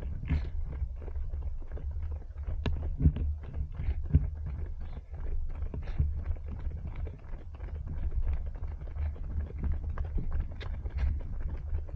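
Running footfalls of a group of runners, many irregular light steps a second, over a steady low rumble of wind and movement on a body-worn action camera.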